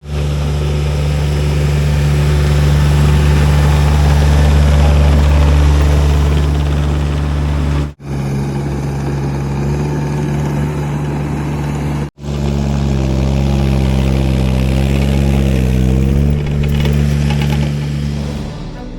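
Small diesel engine of a Baumalight TRL620D mini skid steer running steadily at high revs, heard in three stretches broken by abrupt cuts about 8 and 12 seconds in. In the last stretch the engine note wavers up and down before fading near the end.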